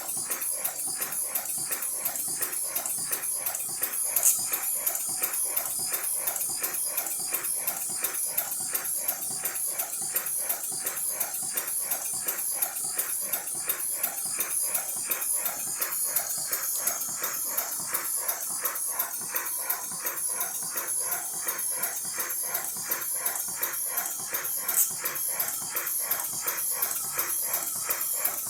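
Live-steam 5-inch gauge model steam locomotive running, its exhaust beating in a fast, even rhythm over a steady hiss of steam. Two sharper clicks stand out, one about four seconds in and one near the end.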